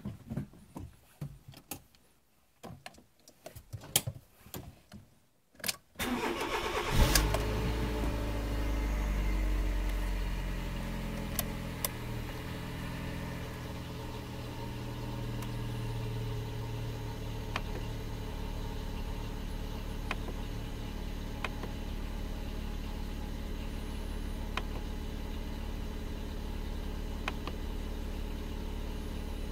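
Fiat Punto Mk2's 1.2-litre 8-valve four-cylinder petrol engine started after several seconds of clicks and knocks, catching just before six seconds in. It runs a little faster and louder at first, then settles into a steady idle.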